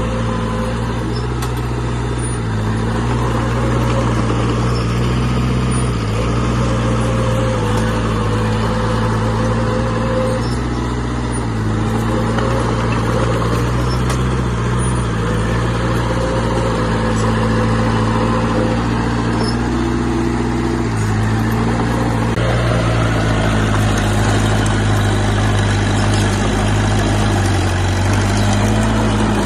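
Diesel engine of heavy earthmoving equipment running continuously, its pitch shifting up and down in steps as the load and throttle change.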